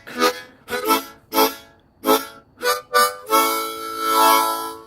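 Music from a reedy wind instrument: about six short notes in a halting phrase, then one long chord held over the last second and a half.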